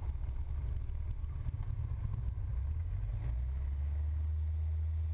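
Cessna 172 engine and cabin noise during a touch-and-go: an uneven low rumble while the plane rolls on the runway, settling about three seconds in into a steady low drone as the engine comes up to takeoff power.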